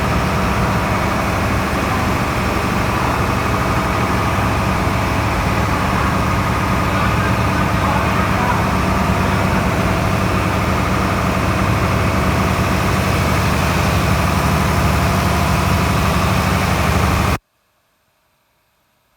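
Marine diesel generator engine running steadily at constant speed, a loud even drone; it cuts off suddenly about seventeen seconds in.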